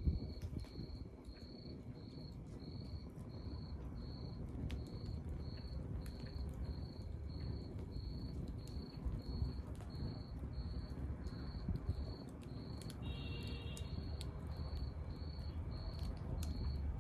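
Wood fire burning with a low rumble and scattered crackles and pops, while a cricket chirps steadily about three times a second.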